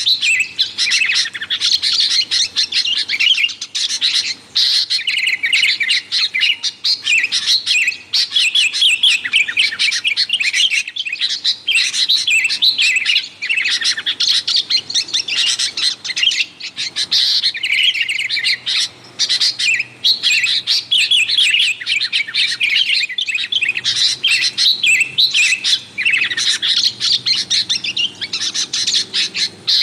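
Sooty-headed bulbuls (kutilang) chattering noisily: a dense, nearly unbroken stream of quick high chirps and short phrases, with only brief pauses.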